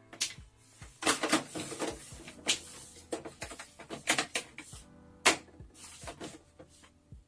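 Objects being handled close to the microphone: a rustle of about a second, then several sharp clicks and knocks, over soft background music.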